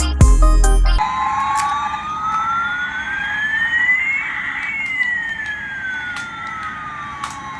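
Electronic music for about the first second, then a siren-like electronic sweep: one tone rising slowly while another falls, crossing midway, over a hiss.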